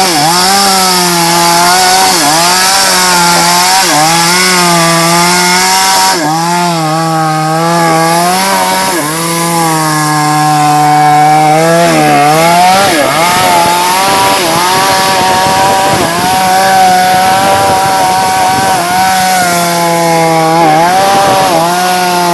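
Two-stroke chainsaw cutting through a large-diameter sengon log, running at high revs, its pitch dipping briefly every couple of seconds as the chain bogs in the wood. The note wavers for a few seconds around the middle, then steadies again.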